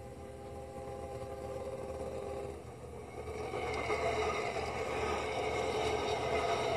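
Diesel freight locomotive's multi-note air horn sounding a steady chord that cuts off about two and a half seconds in, then the locomotive and its double-stacked container cars running past close by, louder as they pass.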